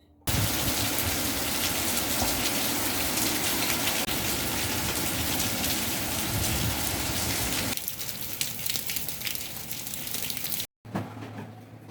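Heavy rain falling in a dense, steady downpour. It drops to lighter rain about eight seconds in, then cuts off abruptly, and a quieter stretch with a low steady hum follows near the end.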